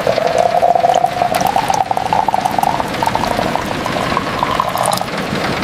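Liquid being poured into a cup or container, its bubbling pitch rising steadily as the vessel fills, stopping about five seconds in.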